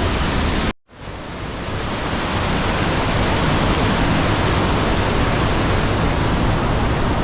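Rhine Falls' water rushing in a dense, steady wash of noise. It cuts out abruptly a little under a second in and swells back to full strength over the next second.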